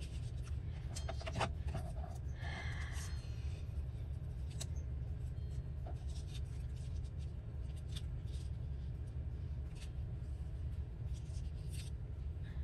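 Paper and card being handled and rubbed on a work surface: scattered rustles, light scrapes and small taps, busiest about one to three seconds in, over a steady low hum.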